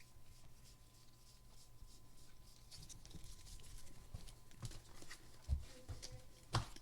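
Trading cards and game pieces being handled on a tabletop: light taps and rustles that grow busier partway through, with two sharper knocks near the end.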